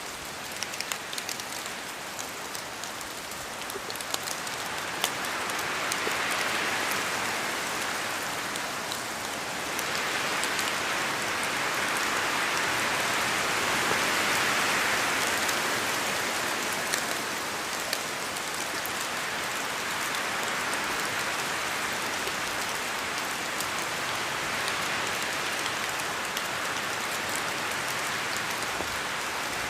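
Steady rain falling through forest trees, with single drops ticking close by in the first few seconds. The rushing sound swells twice, about six seconds in and again around the middle, as wind gusts move through the trees.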